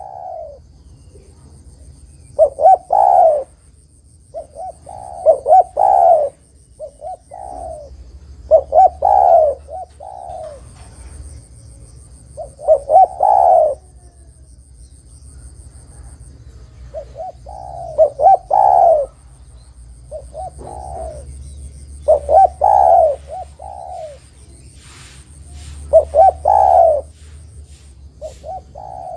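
Spotted dove cooing: about seven phrases of several coos each, one every three to four seconds.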